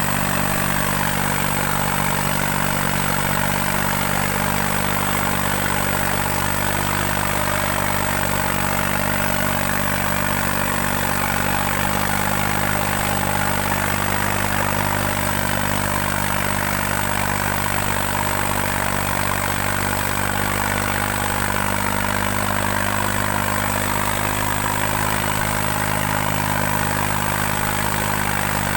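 New Holland 3630 tractor's diesel engine running steadily at constant speed while pulling two harrows.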